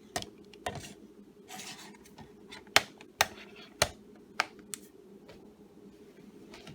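Blu-ray cases being handled: a run of sharp clicks and clacks, about seven of them, with a short rustling scrape about a second and a half in.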